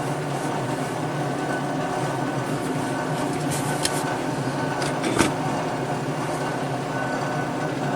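Propane torch burner running steadily, a constant rushing flame noise with a few light clicks around the middle.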